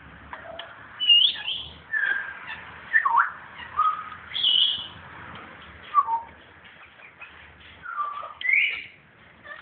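Parrots calling: a string of short whistled calls about a second apart, several sliding up or down in pitch.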